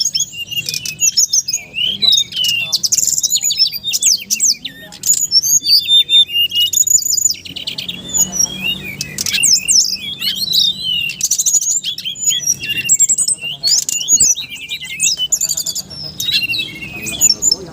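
Birds singing and chirping loudly and without a break: fast, high, overlapping chirps, whistles and trills.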